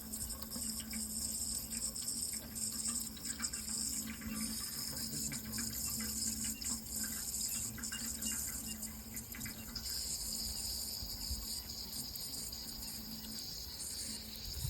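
Running water, a steady rushing hiss with small scattered splashes, over a faint steady low hum.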